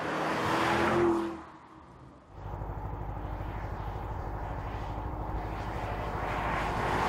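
Audi SQ8's 4.0-litre twin-turbo V8 pulling with a slightly rising engine note, then falling away sharply about a second in. After a brief lull, a steady low, pulsing rumble of the car on the move grows louder toward the end.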